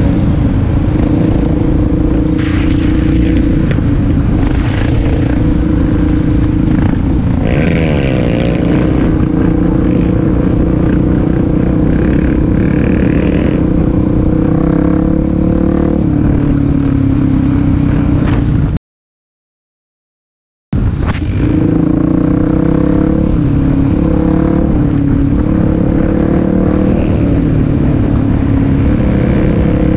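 Suzuki DR-Z400SM's single-cylinder four-stroke engine running at steady cruising revs under wind rush, as heard riding on the bike. The revs waver briefly about a quarter of the way in, and the sound cuts out completely for about two seconds past the middle.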